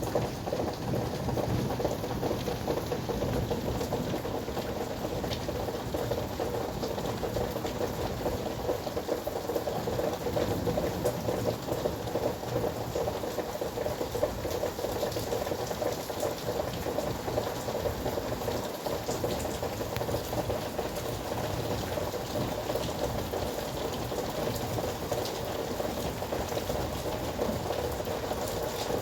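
Steady heavy downpour: a dense, even patter of raindrops that keeps up at the same level throughout.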